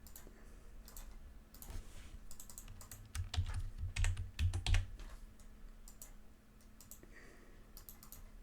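Irregular light clicks from working a computer at a desk, with a cluster of louder, dull low thumps from about three to five seconds in.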